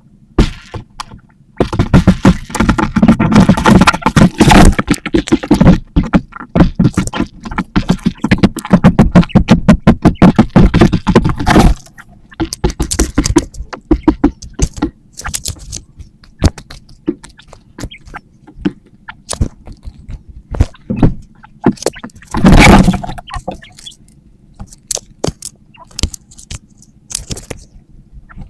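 Materials being handled and worked by hand: dense scraping and clattering full of sharp clicks for the first ten seconds or so, then scattered clicks and knocks, with one short burst of scraping about two thirds of the way through.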